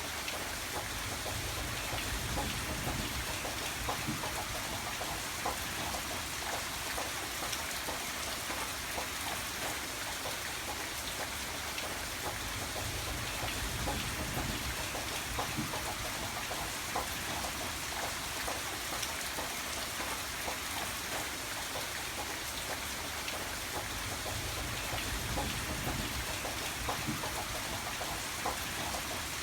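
Steady rain falling, with a dense patter of drops hitting a surface and a low rumble underneath that swells and eases every few seconds.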